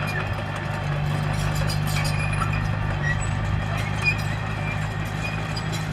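Komatsu D21P crawler bulldozer's diesel engine running at a steady speed, with faint clanks and short squeaks over the engine note.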